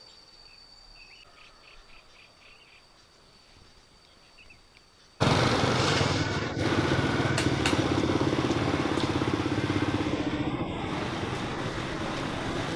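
Quiet outdoor air with a few faint insect chirps. About five seconds in it cuts sharply to a vehicle engine running steadily, with road and wind noise.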